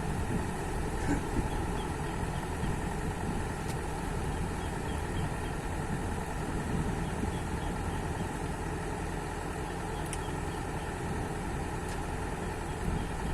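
Heavy machine's engine idling steadily, giving a low, even running sound.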